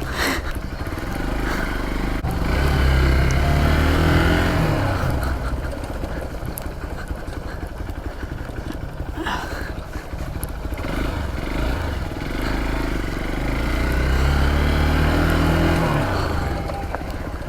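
Dirt bike engine running in second gear, its pitch rising and falling as the throttle is opened and eased off over the bumps. There are two longer climbs, one a few seconds in and another near the end.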